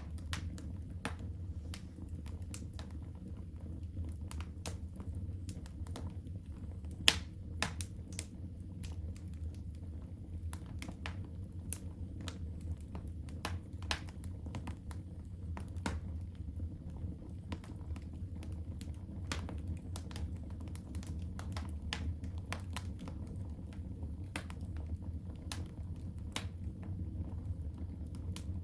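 Wood fire burning in a fireplace: irregular sharp crackles and pops over a steady low rumble of the flames, with one louder pop about seven seconds in.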